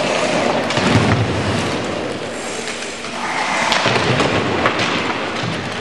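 Sledge hockey play on the ice: scraping and clattering of sledges and sticks, with heavy thuds about a second in and again through the fourth and fifth seconds.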